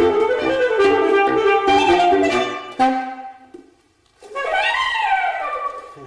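Saxophone playing with a band accompaniment, the ensemble stopping about three seconds in and dying away. After a brief pause a lone saxophone plays a phrase that bends up in pitch and falls back, fading near the end.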